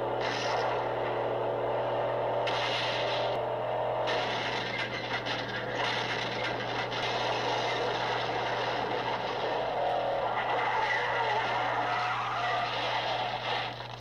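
Car-chase film soundtrack: a car engine revving hard, its pitch climbing over the first few seconds, then a dense rush of engine and tyre noise with skidding. A steady low hum runs underneath.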